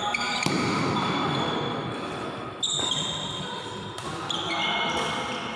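Badminton rally in a sports hall: sharp racket strikes on the shuttlecock about every one to two seconds, each followed by ringing high tones and echo.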